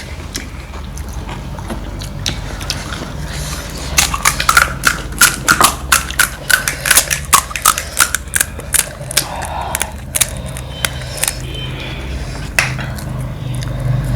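Close-up chewing of crisp panipuri shells: a quick run of crunches, about three or four a second, starting about four seconds in and dying away near eleven seconds, over a steady low hum.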